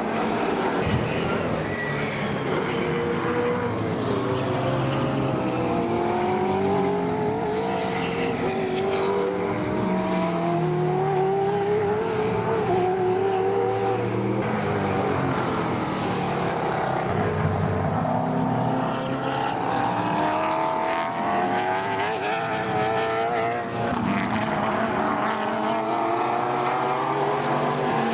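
Several sports sedan race cars at racing speed, their engines rising and falling in pitch as they accelerate, shift and pass, with more than one engine heard at once throughout.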